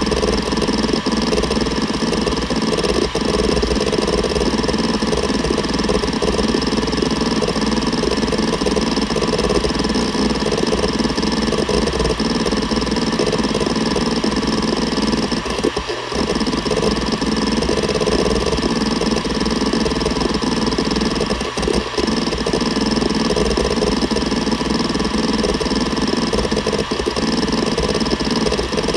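Seagate Barracuda ES.2 ST31000340NS 7200 rpm hard drive running and seeking continuously: a dense stream of fine head-actuator clicks over the steady spindle hum, with brief breaks about 16 and 22 seconds in.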